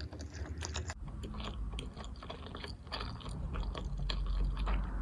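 Close-up chewing of sushi: a steady run of short wet clicks and smacks from the mouth, with no speech.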